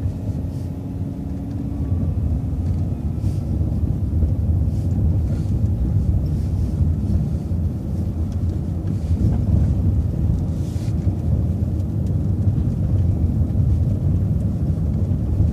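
City transit bus driving on, heard from inside: steady low engine and road rumble that swells a little over the first couple of seconds as the bus pulls away from a stop sign.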